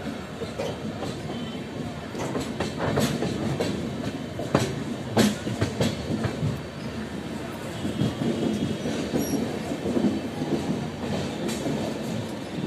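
Passenger train coaches rolling out of a station: a steady rumble, with the wheels knocking and clattering over rail joints and points. The sharpest knocks come about two to six seconds in.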